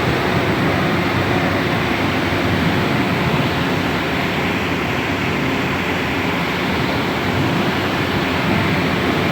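Steady, loud rushing noise with a low hum beneath it: a ship's machinery drone mixed with sea and wind noise on deck.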